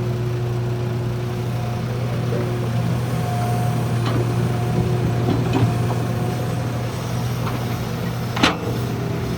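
Heavy diesel earthmoving machinery running steadily, with a whine that comes and goes, a few knocks, and one louder knock near the end.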